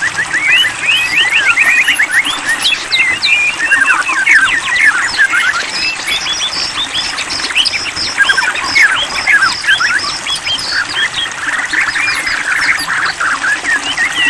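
White-rumped shama (murai batu) song: a dense run of quick, overlapping chirps and short sweeping whistles with no pause.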